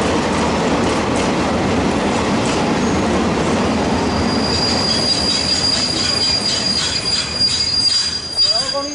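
Freight wagons rolling past at close range: a steady rumble of steel wheels on rail. From about halfway through, a sustained high-pitched squeal from the wheels rises above it, with a regular clatter of wheels over rail joints.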